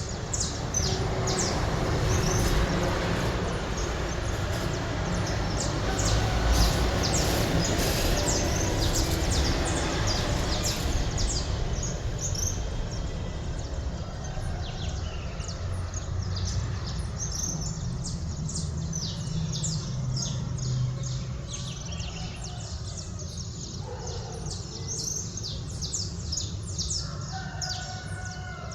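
Small birds chirping in many short, quick high calls over a steady low rumble of city background noise, which swells over the first ten seconds or so and then eases.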